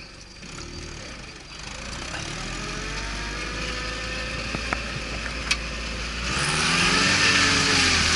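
Off-road vehicle engine pulling under load, its revs rising and falling, with two sharp knocks around the middle. About six seconds in it gets louder, with a rush of noise over the engine.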